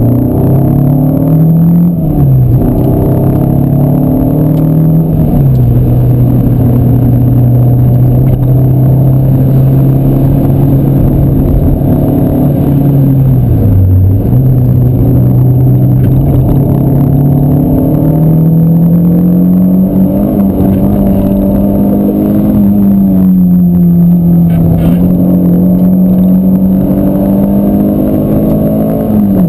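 Renault Clio Cup's four-cylinder engine under load during a lap on track, heard inside the cabin over road and wind noise. Its note holds steady for long stretches and drops sharply in pitch at about 2, 5 and 14 seconds, then climbs slowly through the second half.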